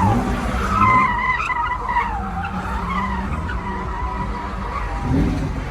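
Car tyres squealing in a long, wavering screech as a car spins its wheels, with the engine running hard underneath.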